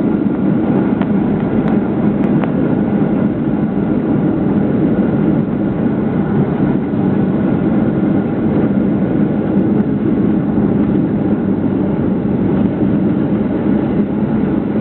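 Jet airliner cabin noise during the landing: a steady, loud rumble of engines and rushing air, with a few faint clicks about one to two seconds in.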